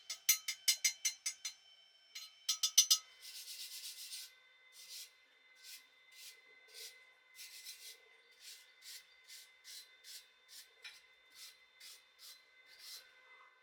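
Wire brush scrubbing steel, most likely cleaning slag off a fresh stick weld, in repeated back-and-forth strokes: quick at first, about six a second, then a denser rasp, then slower strokes of one to two a second.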